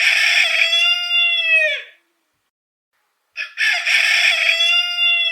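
A rooster crowing twice, each a long cock-a-doodle-doo that falls in pitch at the end. The second crow begins about three and a half seconds in.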